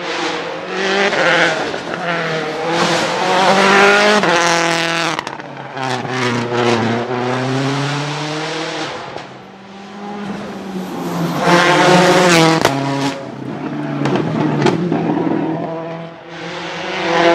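Citroën C4 WRC rally car's turbocharged four-cylinder engine revving hard. Its pitch rises and falls several times as it accelerates and backs off.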